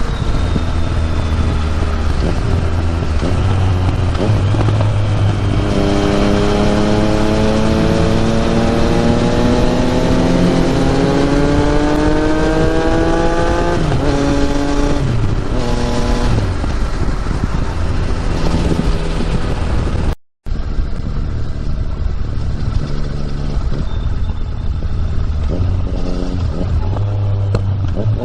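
Yamaha MT-09's three-cylinder engine through an Akrapovic exhaust, heard from the bike while riding: the engine note rises steadily as it accelerates, drops sharply with gear changes, and rises again near the end, over a steady rush of wind. The sound cuts out for a moment about two-thirds of the way through.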